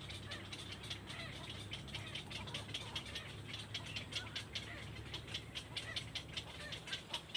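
Young birds chirping: short, high peeps repeating several times a second over a steady low hum.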